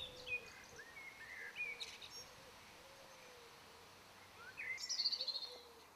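Outdoor birdsong: scattered short chirps and whistles, then a quicker run of high notes a little under five seconds in, over faint steady background noise.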